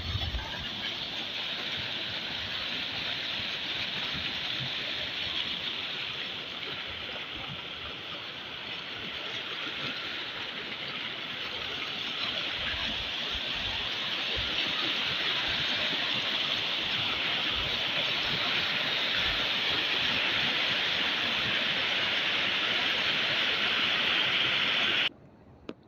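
Heavy rain falling in a steady, dense hiss that slowly grows louder, then cuts off abruptly near the end.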